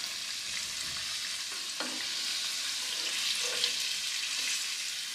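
Batter-coated egg balls sizzling steadily in hot oil in a frying pan, with a couple of faint clicks.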